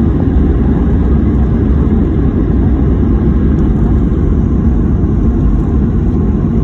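Steady, loud low rumble of a Boeing 737 landing.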